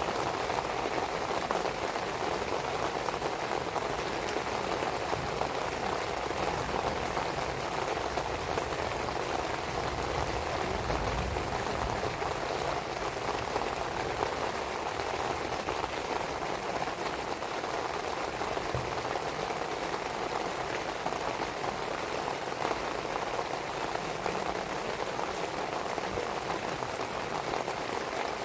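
Steady rain falling, with a wood fire of split firewood crackling now and then.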